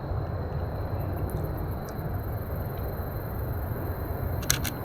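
Steady low outdoor rumble, with two quick sharp clicks close together near the end.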